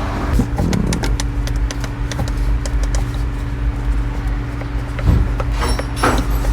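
A steady low machine hum runs under irregular light clicks and knocks, as of hands and tools working on a car.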